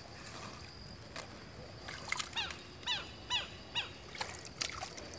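A bird calls repeatedly from about two seconds in: a run of short, downward-slurred notes, about two a second. A few sharp clicks come in between.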